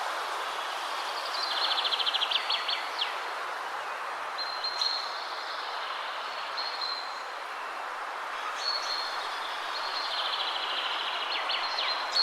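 Steady wind rustling through trees, with songbirds singing high, clear phrases over it. Twice a bird gives a fast trill that ends in quick downward notes, once early on and again near the end.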